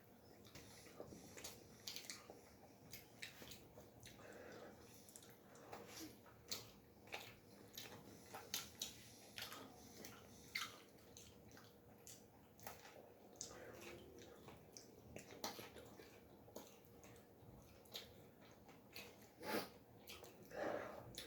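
Faint, close-miked eating of pizza: irregular wet mouth clicks and chewing smacks, a couple of them louder near the end.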